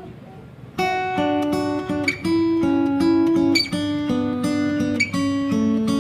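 Background music on acoustic guitar, plucked notes and chords that start about a second in and carry on steadily.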